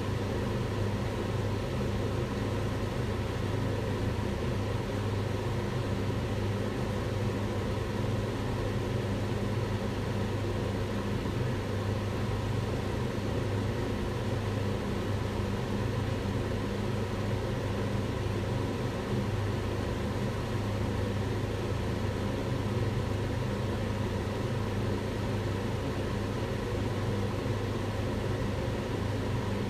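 Kitchen range hood's extractor fan running steadily: an even rushing noise over a low, constant hum.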